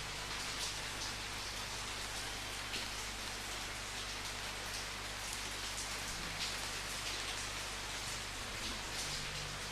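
Steady rainfall: a continuous hiss of rain with scattered louder drops spattering on a surface.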